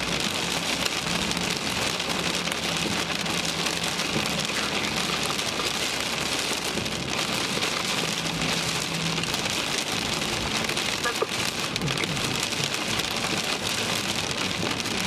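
Heavy rain mixed with small hail pelting the car's roof and windshield, heard from inside the car as a dense, steady patter of fine ticks.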